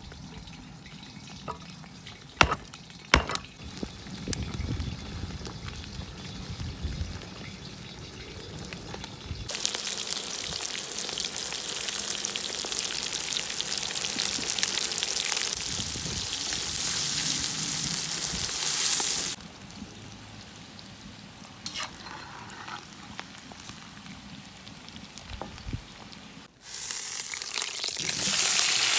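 Food frying in hot oil in a kazan, an even sizzle that comes in loud stretches and cuts off abruptly, with two sharp knocks a few seconds in.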